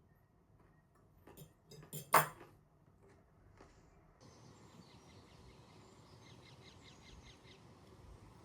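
A few sharp knocks, the loudest about two seconds in. Then a switch to a steady outdoor background with a small bird's rapid high chirping.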